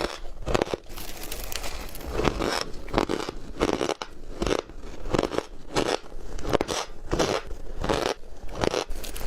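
Ice being bitten and chewed close to the microphone: a run of sharp crunches, roughly one every half second to a second.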